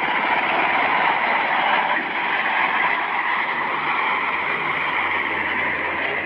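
A steady, unbroken motor-like running noise, as from a vehicle.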